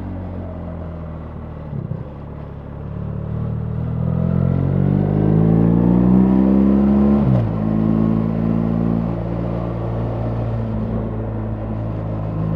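BMW R 1300 GS boxer-twin motorcycle engine under way. It runs steady, then climbs in pitch and loudness as the bike accelerates for about four seconds, drops abruptly at an upshift about halfway through, and settles into a steady cruise.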